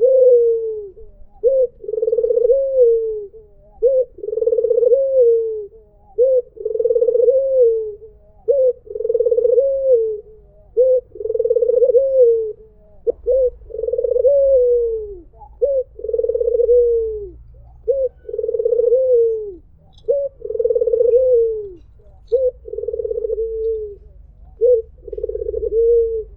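White puter (Barbary dove) cooing over and over: each phrase is a short note followed by a long coo that falls in pitch at its end, about one phrase every two seconds.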